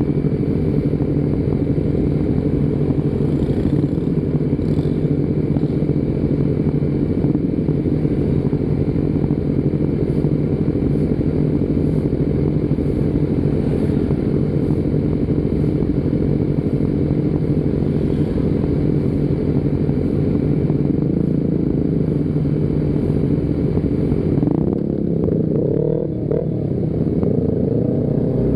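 Motorcycle engine running steadily on the move. Near the end the engine note glides up and down as the revs change.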